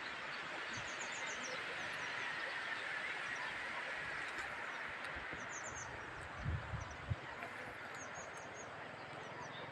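Steady outdoor hiss with short runs of faint, quick high chirps now and then, and a few low thumps about six and a half to seven seconds in.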